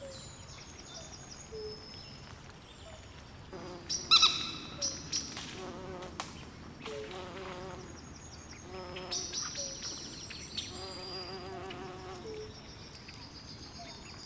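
Swamp night chorus of frogs and insects: many short chirps and trills repeating over a faint background haze, with one louder call about four seconds in.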